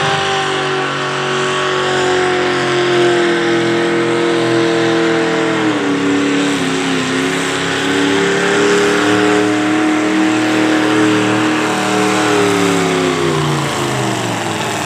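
Pulling vehicle's engine at full throttle down the track, held at high revs, its pitch dipping briefly about six seconds in and then falling away near the end as the run comes to a stop.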